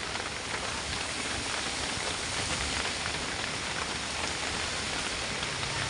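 Heavy rain pouring down steadily, with a truck engine running low underneath.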